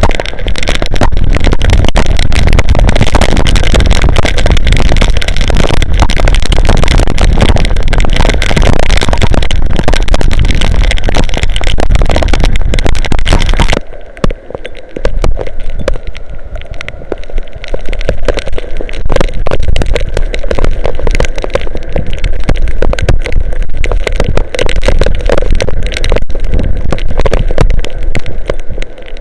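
Heavy rain and strong wind gusts battering an outdoor camera's microphone: a loud, overloaded roar with many sharp ticks. About halfway through, the high hiss drops away suddenly, leaving a lower rumble.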